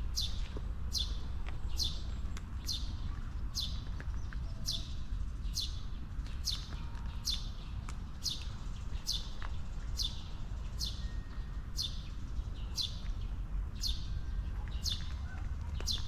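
A bird repeating one short, high, quickly falling call at a steady pace of roughly three every two seconds, over a low steady rumble.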